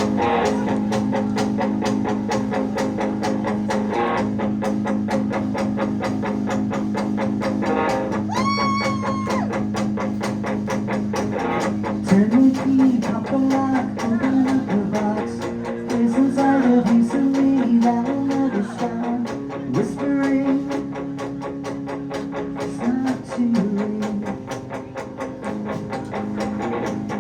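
Live rock band playing a song: electric guitar, bass and drum kit over a steady beat. A long held note rings out about a third of the way in.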